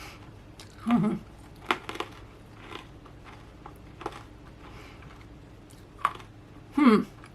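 Chewing freeze-dried banana Laffy Taffy: scattered crisp crunches and mouth clicks, with short hums about a second in and near the end.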